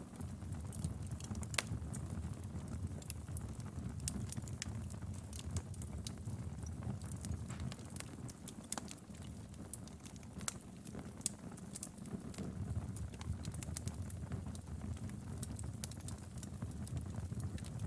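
Wood fire crackling steadily over a low rumble of flames, with irregular sharp pops, a few louder ones scattered through.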